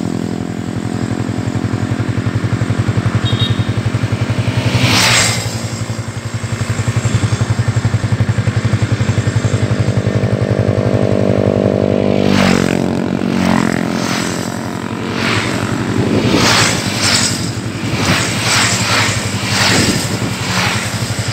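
Motorcycle engine running steadily while riding, its pitch shifting briefly twice, about a quarter of the way in and just past the middle. Repeated gusts of rushing noise come in over the engine in the last third.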